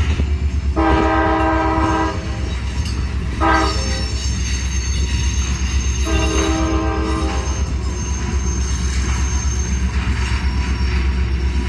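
Freight train's diesel locomotive horn sounding three blasts, a long one, a short one and another long one, over the steady low rumble of the train.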